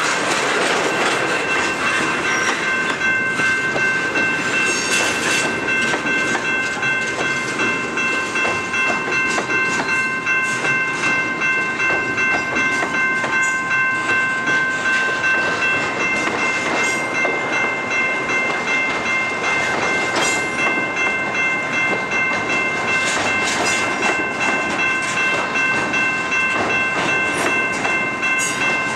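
Double-stack intermodal freight train passing close by: well cars loaded with shipping containers roll steadily, their wheels clicking over the rails. A steady high-pitched ringing tone of several pitches is held underneath throughout.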